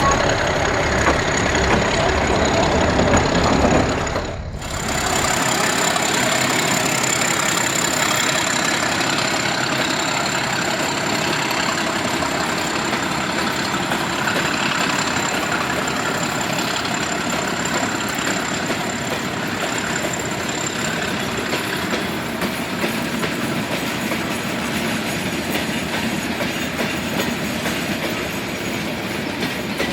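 Metre gauge diesel train: a locomotive engine running for the first few seconds, then, after an abrupt change, the train rolling with wheels clacking over the rail joints and a thin high steady whine above it.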